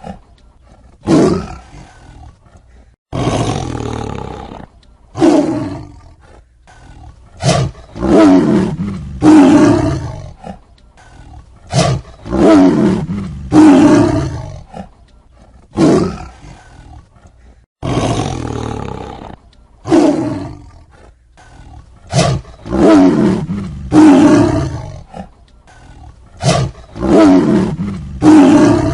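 Tiger roaring again and again: about a dozen loud roars, each a second or two long, starting suddenly and fading off, with short pauses between them.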